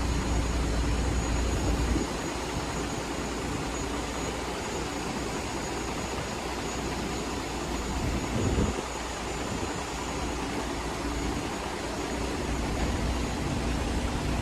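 Electric reach truck running, a steady mechanical hum with a faint high whine; a heavier low rumble drops away about two seconds in, and there is a short louder swell a little past the middle.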